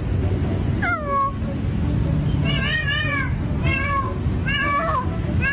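A cat meowing repeatedly, about five short meows each falling or arching in pitch, roughly one a second, over a steady low rumble.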